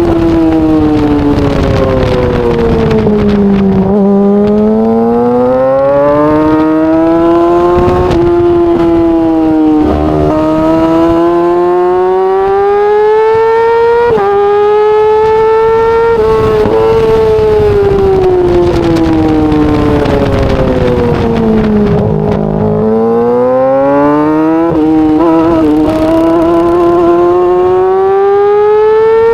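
Yamaha R6 inline-four engine at high revs, its pitch climbing for several seconds and falling away again several times over, with brief breaks where it shifts gear.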